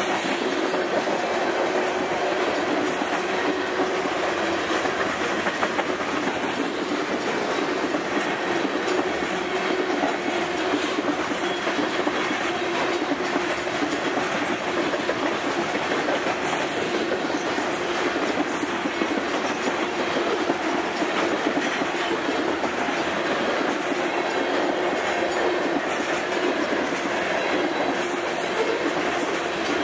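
Covered hopper cars of a heavy grain train rolling past at speed, steel wheels clicking over the rail joints under a steady rumble of wheels on rail.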